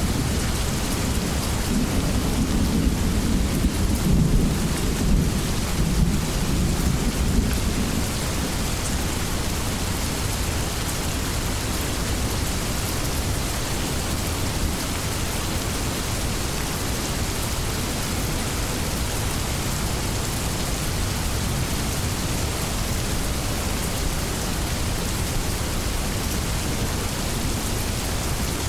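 Rainstorm: steady heavy rain hissing, with a low rumble of thunder in the first several seconds that fades away, leaving the rain alone.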